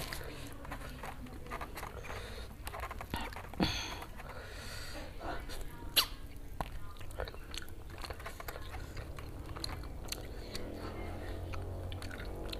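A person chewing rice and meat eaten by hand, with many short mouth clicks and one sharper click about six seconds in.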